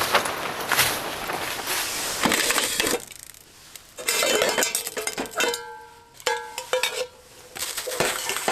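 Dishes and utensils being scrubbed and clinking together, with a scraping, clattering sound in the first few seconds. From about five seconds in, background music with held notes takes over.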